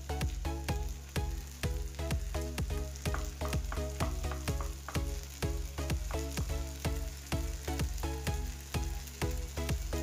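Beaten egg sizzling as it scrambles in hot oil, stirred and scraped with a wooden spatula, over background music with a steady beat.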